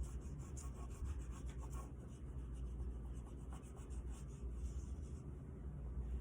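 Oil pastel rubbed on paper in quick, short back-and-forth strokes: a dry, scratchy colouring sound that thins out about five seconds in.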